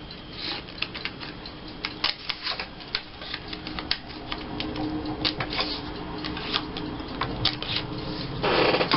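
Corner-rounder punch clicking as the corners of a paper tag are rounded, with paper handling: a run of irregular small clicks and taps over a faint steady hum. A louder rustle comes near the end.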